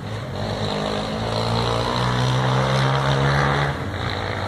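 A motor engine's steady hum, swelling through the middle and dropping off sharply past the three-and-a-half-second mark.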